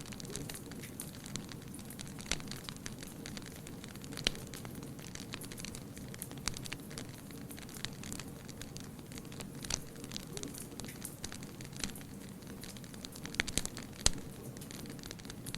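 Wood fire burning with a steady low rumble and irregular crackles and pops, a cluster of louder pops about 13 to 14 seconds in.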